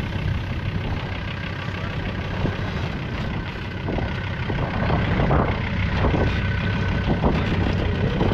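A 4WD's engine running at low revs as it crawls over an obstacle, with occasional scrapes from underneath during the second half.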